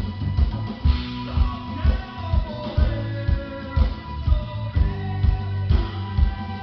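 Live rock band playing: electric guitar over bass and drums with a steady beat.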